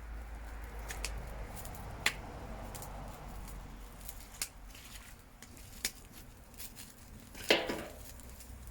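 Fire burning in a metal drum, crackling with a few sharp pops over a low rumble, and one louder short burst of noise near the end.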